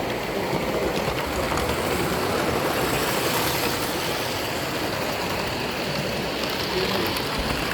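Miniature train running along its track: a steady rumble with faint clicks.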